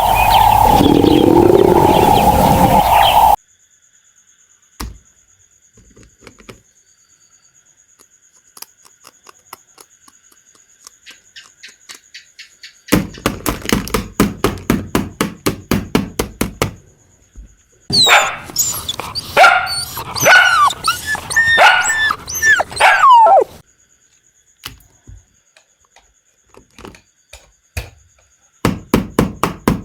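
A dog barking and yelping in a cluster of quick barks about two-thirds of the way through. Runs of rapid clicks come before and after it, and a loud continuous sound cuts off about three seconds in.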